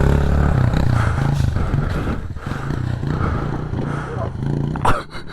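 Honda CRF110 pit bike's small four-stroke single-cylinder engine revving as it rides off, its pitch stepping up and down with the throttle.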